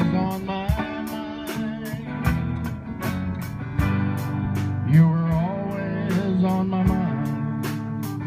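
Live band playing with no words: guitar over bass and a steady drum beat.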